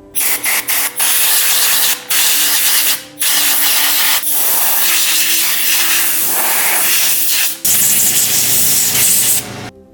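Loud spraying hiss of a compressed-air tool, triggered in several short bursts and then in long, steady blasts with sharp starts and stops.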